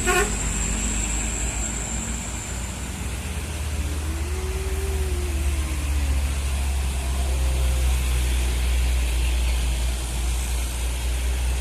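Heavy vehicle engine running steadily with a deep low drone that grows louder about six seconds in. A faint high thin whine is heard over it for the first few seconds.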